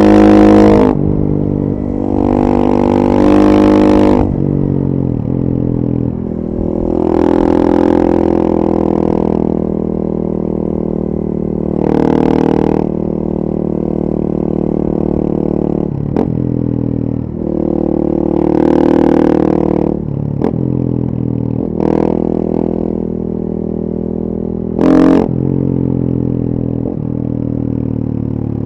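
2014 KTM 450 EXC supermoto's single-cylinder four-stroke engine through a full FMF 4.1 exhaust, ridden under way. The revs rise and fall repeatedly as the rider accelerates and backs off, with steadier cruising stretches between and a few short, sharp blips of throttle.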